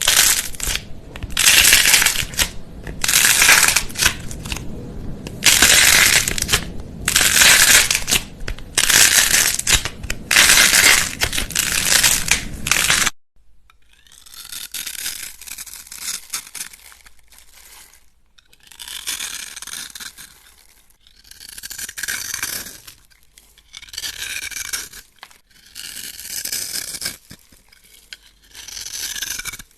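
Repeated bursts of crisp crunching noise, each about a second long, from something brittle being crushed or cut close to the microphone. About 13 seconds in the sound cuts to a softer crackling, in bursts about every two seconds.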